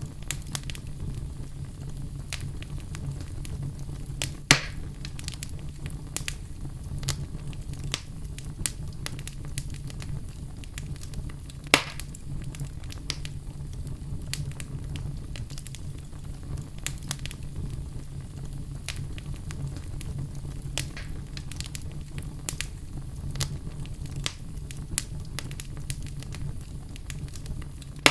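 Wood fire burning in a fireplace: a steady low rumble of flames under frequent irregular crackles, with two louder pops, one a few seconds in and one near the middle.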